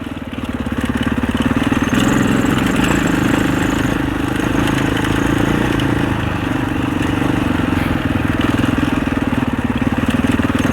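Husaberg 650 enduro dirt bike's single-cylinder four-stroke engine running under load while riding a trail. It gets louder over the first couple of seconds and eases briefly about halfway through as the throttle changes.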